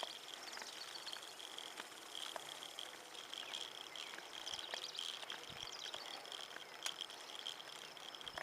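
Insects trilling in a steady, high-pitched chorus that pulses gently, with faint scattered ticks.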